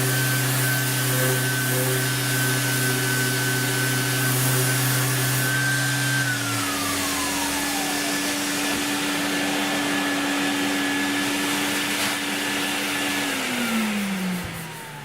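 Workshop vacuum and an electric power tool running with a steady whine and hiss. One motor winds down about six seconds in, and the other winds down shortly before the end.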